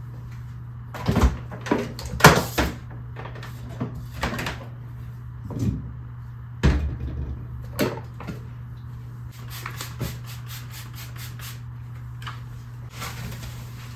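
Kitchen clatter: cupboard doors opening and closing and objects knocked and set down, heard as a series of separate knocks and clicks, with a quick run of light ticks about ten seconds in.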